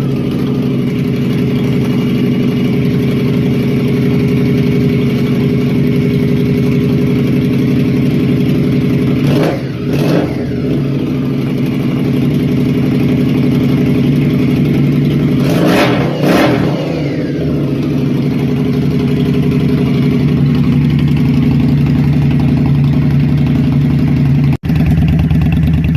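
Indian Scout Sixty's liquid-cooled V-twin idling through Kuryakyn Crusher Maverick slip-on mufflers. The throttle is blipped twice, once near the middle and again about two-thirds of the way through, each rev rising and falling quickly before it settles back to idle.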